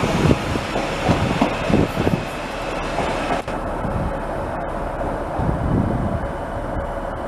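A train passing on the track with a heavy rumble, which becomes steadier and thinner about halfway through.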